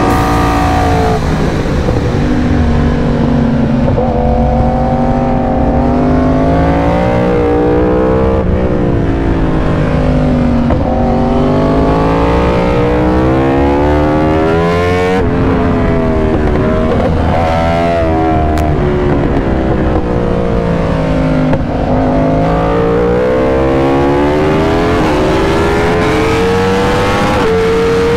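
Yamaha R1's crossplane inline-four engine through an Austin Racing exhaust, ridden hard. The engine note climbs under acceleration and drops back under braking, again and again.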